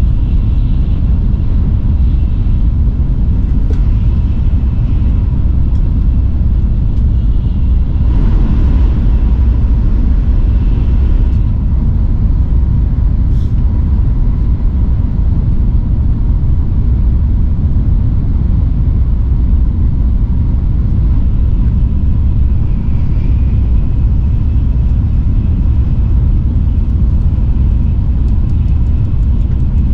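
Steady low rumble of a Shinkansen bullet train running at speed, heard from inside the passenger cabin, with a faint steady high whine over it.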